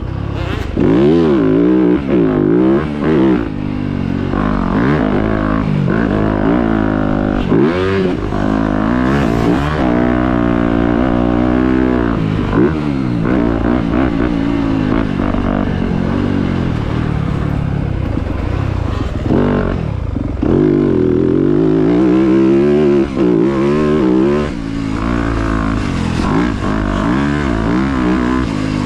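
Dirt bike engines revving hard, their pitch climbing and dropping again and again through throttle and gear changes, with more than one bike heard at times.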